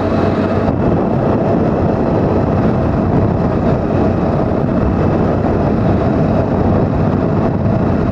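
Motorcycle running steadily under way, its engine note mixed with a constant rush of wind and road noise.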